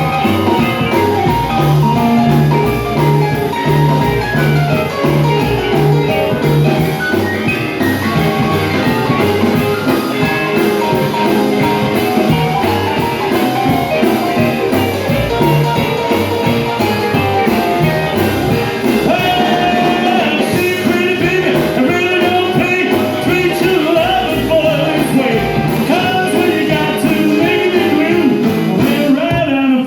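Rockabilly band playing an instrumental break to a steady fast beat, a lead instrument taking the solo in place of the vocal.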